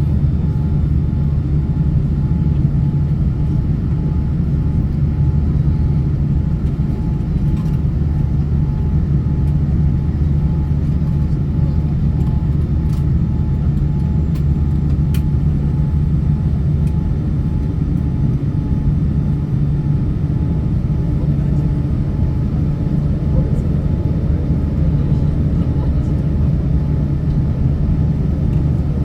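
Steady, even drone of an airliner heard from inside the cabin: jet engine and airflow noise, heaviest in the low range and unchanging throughout.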